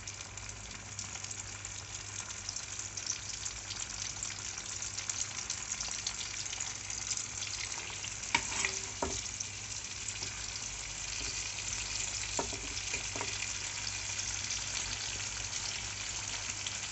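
Tomatoes, green tomatoes and chillies frying in oil in a nonstick wok: a steady sizzle, with a metal ladle knocking against the pan a few times about halfway through.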